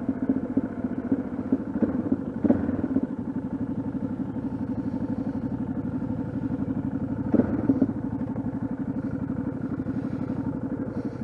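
Yamaha XT660Z Ténéré's single-cylinder engine running steadily at low revs, with an even, rapid pulse. Brief knocks come about two and a half seconds in and again near eight seconds.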